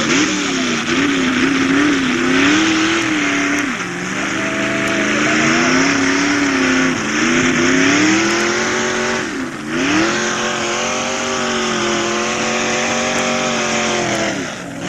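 Two-wheel-drive pickup truck engine running hard under load during a truck pull, with a loud hiss over it. The revs sag about four seconds in, then dip sharply and climb back just before ten seconds. They fall off right at the end.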